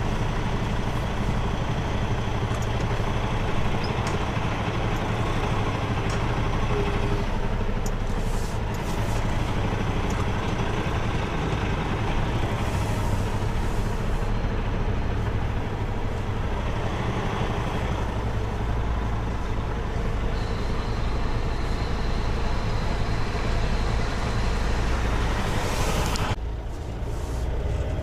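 Semi-truck's diesel engine running with a steady low drone. A hiss over the drone cuts off suddenly near the end.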